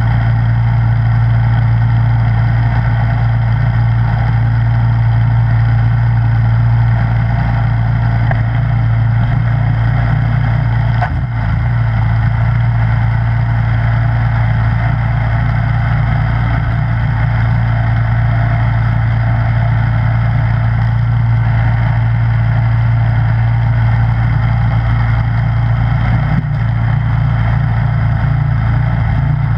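Snowblower engine running steadily at a constant speed, with a brief dip about eleven seconds in.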